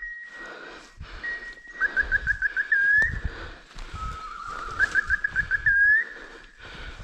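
A whistle-like call repeats about three times: a steady tone, a fast run of chirps and a short upward sweep. It plays over rustling and footsteps through undergrowth.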